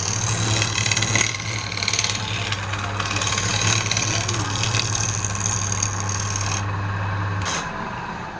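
Wood lathe running with a turning tool scraping the spinning wood, a steady motor hum under a rough hiss. The cutting stops about six and a half seconds in and the motor hum cuts out about a second later.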